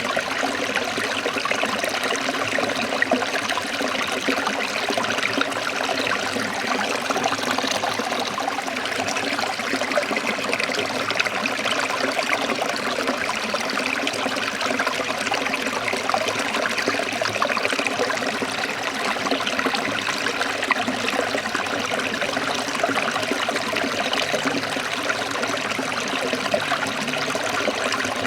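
Forest stream of water trickling and flowing steadily.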